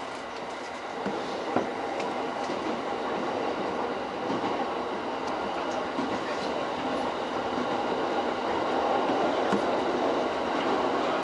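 E231 series electric commuter train running along the track, heard from inside the front car: a steady noise of wheels on rail with a few faint clicks, growing gradually louder.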